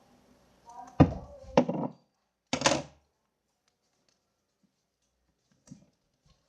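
Two sharp thunks on a tabletop, then a short crackling rustle as the paper is handled, followed by near silence with one faint tick.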